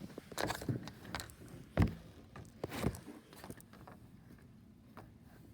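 Handling noise: a string of short knocks and rustles, loudest about two seconds in, settling to a faint steady background near the end.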